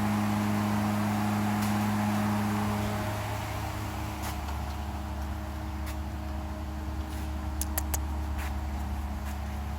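Steady low mechanical hum, which shifts to a lower, slightly quieter drone about three seconds in, with a few sharp clicks near the end.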